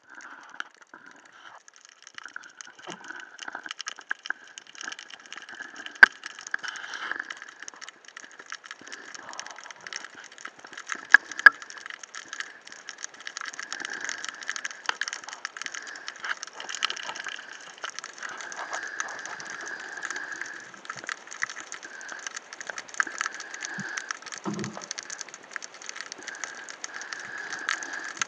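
Underwater ambience picked up by a diver's camera: a continuous dense crackle of tiny clicks, with a few sharper clicks about six and eleven seconds in and a brief low thump near the end.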